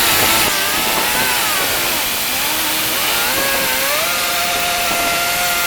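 Handheld power tool cutting metal to remove a boat's sterndrive gimbal bearing, its motor whine dipping and rising as it loads and unloads, then holding steady about four seconds in, over a loud hiss.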